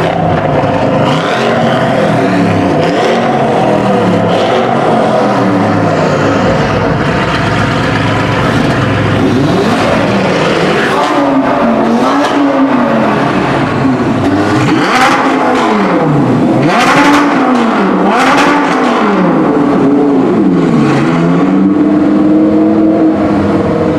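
Supercar engines running loud and revving, the engine note rising and falling in a string of quick rev blips through the second half, with a few sharp cracks among them.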